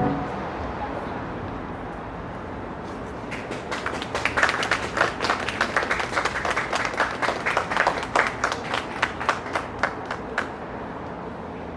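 A small group of people clapping by hand, the claps starting about three seconds in and dying away near the end, over a steady background hiss.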